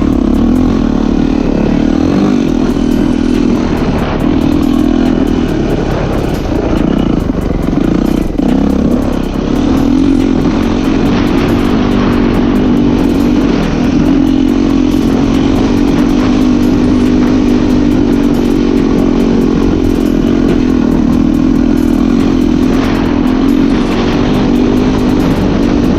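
Yamaha YZ450F motocross bike's single-cylinder four-stroke engine running under way at a steady pace, its pitch wavering up and down for a few seconds between about six and nine seconds in.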